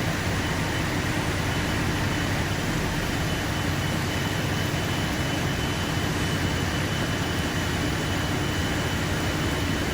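Heavy rain falling in a steady downpour, a continuous even hiss.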